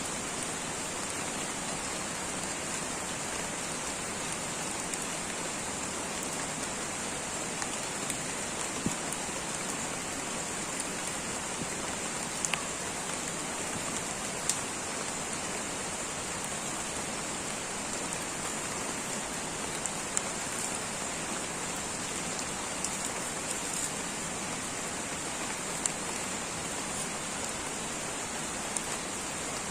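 Steady light rain falling in a tropical rainforest, an even hiss with scattered single drops ticking on nearby surfaces.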